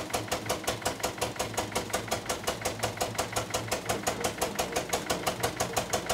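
Gasoline engine driving a sugarcane mill, running steadily with an even, rapid beat of about six to seven pulses a second.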